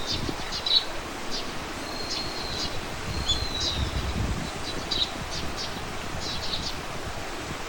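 Small birds calling, a string of short high chirps and thin whistled notes repeating every second or so, over a steady low rumble of outdoor background noise.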